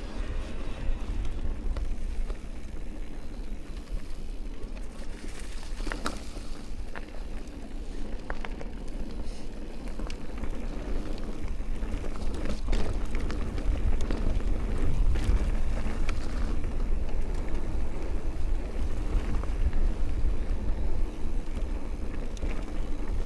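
Amflow electric mountain bike riding a trail: tyres rolling over dirt and roots, with wind rumbling on the microphone and a few sharp knocks and rattles from the bike over bumps.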